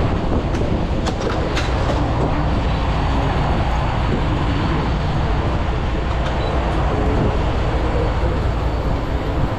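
Semi truck's diesel engine idling, left running for cab heat: a steady low rumble, with a few light clicks in the first two seconds.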